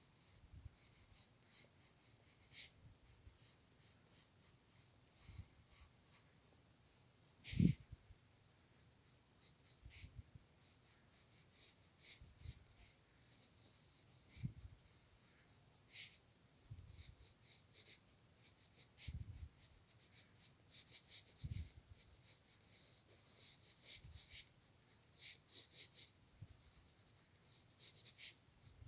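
A drawing tool scratching on sketchbook paper in short, irregular strokes, with occasional soft bumps against the book or table, the loudest a single knock about seven and a half seconds in.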